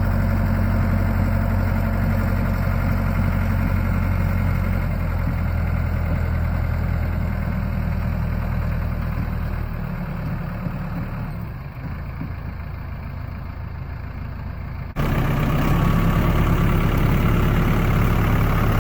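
Heavy truck engine noise during a tow, with the 1964 Chevy M-80's 409 big-block V8 being turned over in gear without firing, building oil pressure. The steady low hum fades somewhat about ten seconds in, then jumps back up suddenly about fifteen seconds in.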